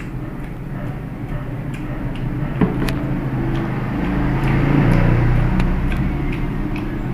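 A motor vehicle's engine passing by: a steady low hum that grows louder about four seconds in and then eases off. Light clicks of eating and cutlery sound over it.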